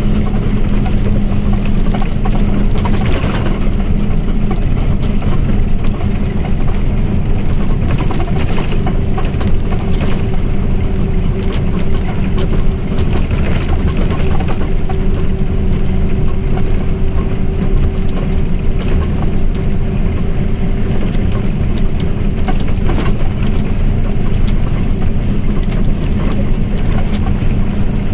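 Mercedes-Benz OF1722M bus's diesel engine and drivetrain running, a loud steady mechanical drone. A steady whine joins in about nine seconds in and fades near the twenty-second mark, which is typical of the differential's gear whine.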